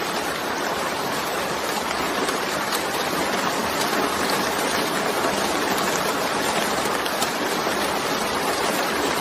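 Steady heavy rainfall: a dense, even hiss with faint drop ticks.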